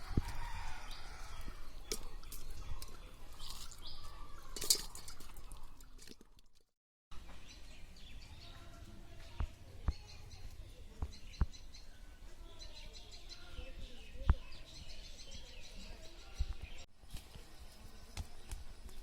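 Birds chirping in short repeated calls, with scattered sharp knocks and clicks. The sound cuts out completely for a moment about six and a half seconds in.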